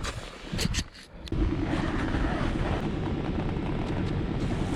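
Yamaha WR250F's single-cylinder four-stroke engine running steadily. It comes in suddenly about a second in, after a few scattered knocks.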